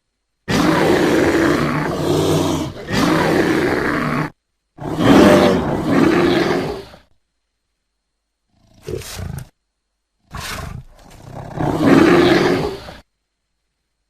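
Bear calls: about six separate rough, noisy roars and growls, each half a second to two seconds long, with dead silence between them where the recordings are cut.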